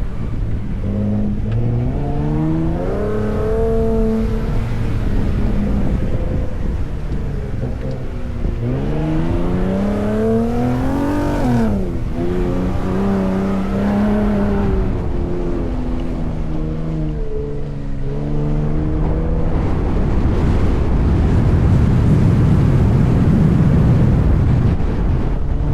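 Ford F-150 Raptor's twin-turbo V6 driving on desert sand, its pitch climbing twice under acceleration with a sudden drop about halfway through, then holding and easing off. In the last several seconds the engine fades under a loud rush of wind on the microphone.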